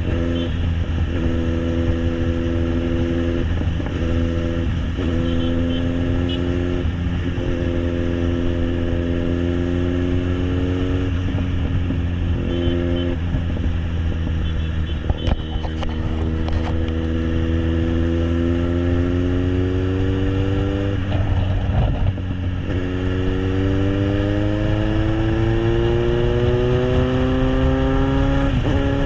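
Kawasaki Z800's inline-four engine through an SC Project aftermarket exhaust, running under way on the road. The engine note breaks and resets several times in the first half as the rider shifts or eases the throttle, then climbs steadily for several seconds twice near the end as it accelerates.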